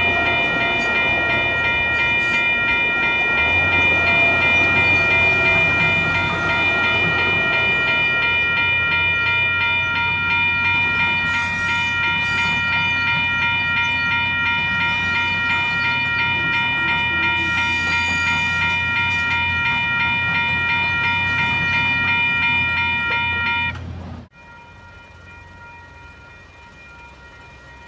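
Level crossing electronic bells (Western-Cullen-Hayes e-bells) ringing with a rapid, steady, high-pitched pulse while a train rumbles through the crossing. Near the end the sound drops off sharply, leaving the bells faint.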